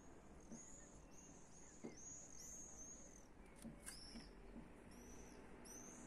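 A small bird calling faintly: a quick series of high, short arched notes, about three a second, with a couple of soft clicks about two-thirds of the way in.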